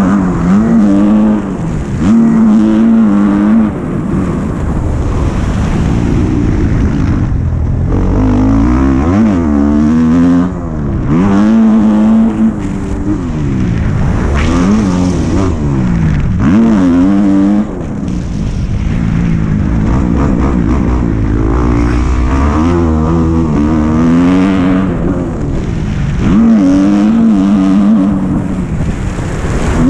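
Dirt bike engine being ridden hard, revving up and easing off again and again as the rider works the throttle and gears.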